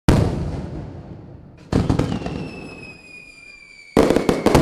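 Fireworks: a loud burst at the start, a second burst about a second and a half in followed by a falling whistle, then a rapid crackle of pops near the end.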